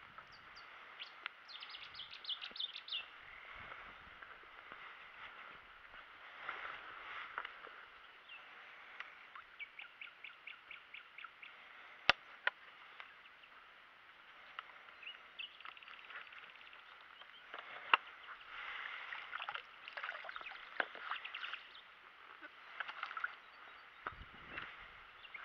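Several songbirds singing, with chirps and rapid trills, one trill a run of about six quick notes a second. Two sharp clicks stand out, one about halfway through and one about two-thirds of the way.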